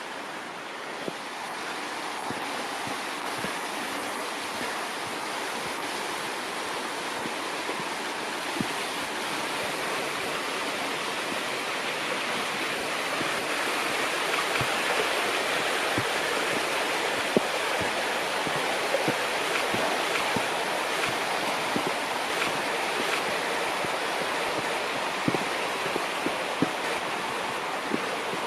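Steady rushing of stream water, swelling slightly louder midway, with a few scattered short clicks.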